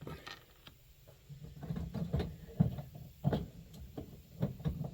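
Irregular small clicks and knocks of small metal stove parts being handled and fitted by hand, the sharpest about halfway through.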